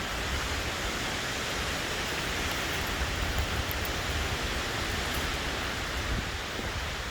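Strong wind blowing through the forest canopy, a steady rushing noise, with a low uneven rumble of wind on the microphone.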